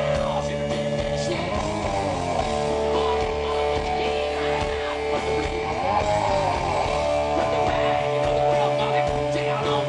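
Live hard rock band playing, electric guitar to the fore, with sustained notes that bend and waver in pitch.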